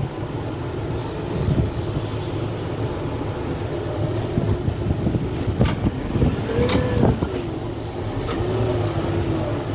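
Kubota M6-141 diesel tractor working under load with a root grapple, engine running steadily, with a whine that rises and falls in pitch partway through. Several sharp cracks come in the middle, as wood snaps while trees are pulled and moved.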